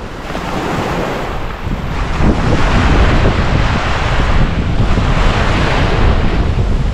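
Sea waves breaking and washing up the beach, with wind buffeting the microphone; the surf grows louder about two seconds in.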